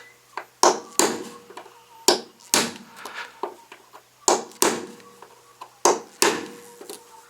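A hammer striking a nail punch to set nail heads down into a hardwood deck: about ten sharp blows at an uneven pace, several coming in quick pairs.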